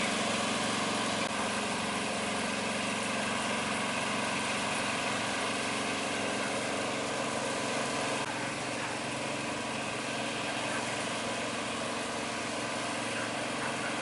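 Engine of road-construction machinery running steadily.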